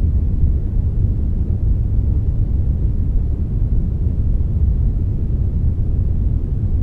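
Synthetic brown noise mixed with a little white noise: a steady, even deep rumble with only a faint hiss on top.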